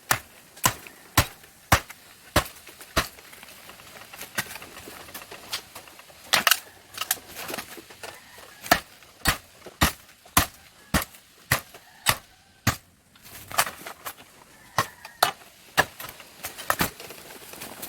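Repeated sharp chops of a blade hacking into bamboo, irregular strokes about one or two a second with a brief pause about two-thirds of the way through.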